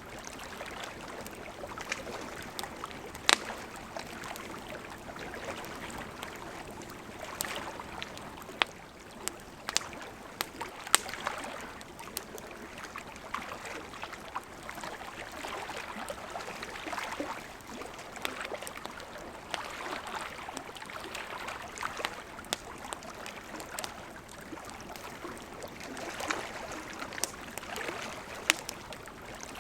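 Wood fire crackling with frequent small snaps and a few louder pops, over gentle lake water lapping in soft swells every couple of seconds.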